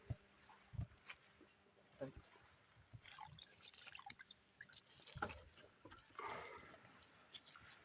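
Faint sloshing and splashing of water with scattered small knocks, as raw chicken is washed by hand. Under it runs the steady high chirring of crickets.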